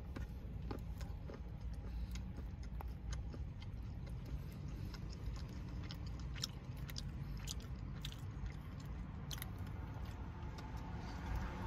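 Someone chewing a bite of hard dark chocolate, with scattered small clicks and crunches, over a steady low rumble.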